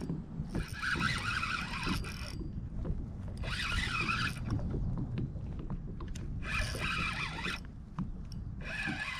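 Fishing reel cranked in four bursts of one to two seconds each, a rasping whir while line is brought in on a hooked bass, over a steady low wind rumble on the microphone.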